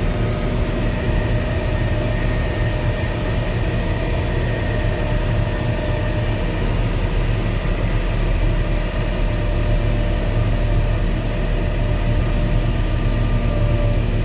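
Volvo L70H wheel loader's diesel engine and snow blower attachment running steadily under load, heard from inside the operator's cabin: a constant heavy drone with a steady whine over it.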